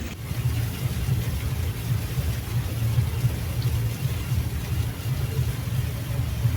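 Riverboat engine running steadily, a continuous low rumble.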